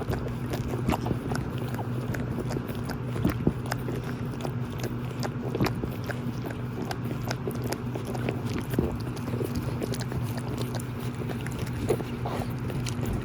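Young puppies moving about and chewing: many small irregular clicks and scratches over a steady low hum.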